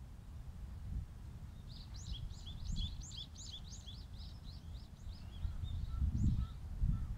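A small bird twittering: a quick run of about a dozen short high chirps lasting around three seconds, beginning about two seconds in. Under it, a low rumble of wind on the microphone that grows gustier near the end.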